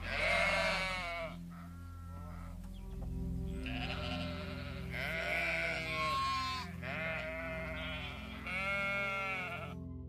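A sheep bleating over and over, about six wavering bleats with short gaps between them, the loudest at the start.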